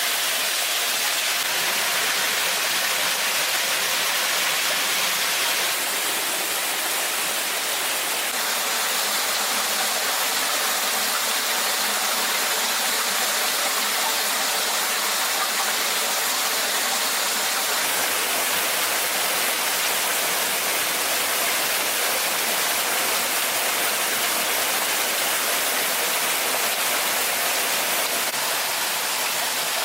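Waterfall's water rushing steadily, an even hiss with no breaks, its tone shifting slightly between about six and eight seconds in.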